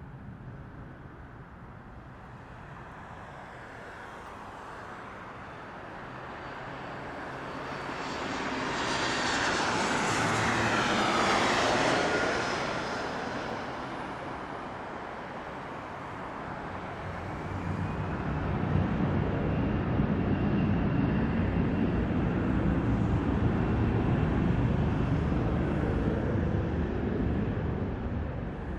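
Southwest Boeing 737 jet engines at takeoff power: a hissing whine swells to a peak midway with tones sliding down in pitch as the jet passes, then gives way to a deep steady rumble through the second half.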